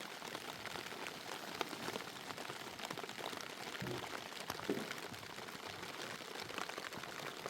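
Steady rain, a dense patter of small drop ticks.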